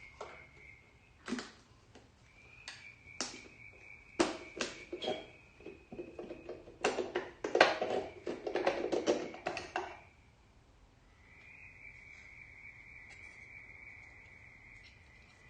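Metal engine parts knocking and clattering as a part is worked loose and pulled out: scattered single knocks, then a dense run of clatter for a few seconds past the middle. A faint steady high-pitched tone sounds in the background, dropping out for about a second near the end of the clatter.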